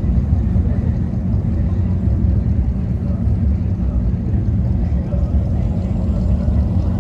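A car engine's steady low rumble at low revs, with no rise or fall in pitch.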